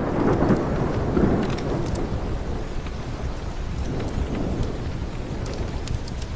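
Steady rain with a low roll of thunder that fades over the first two seconds or so, and the light crackle of a wood fire in a fireplace.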